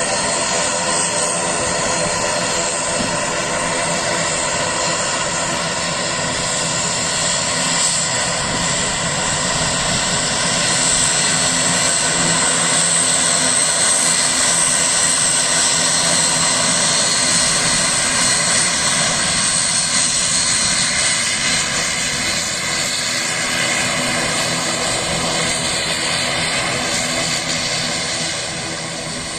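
IndiGo airliner's engines running loud and steady, a dense roar with steady whining tones through it, growing a little louder about a third of the way in and easing off near the end.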